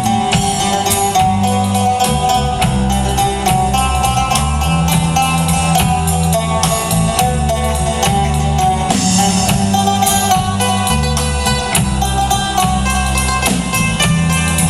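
A live Christian indie-folk band playing an instrumental passage with a steady beat over a moving bass line, with no singing.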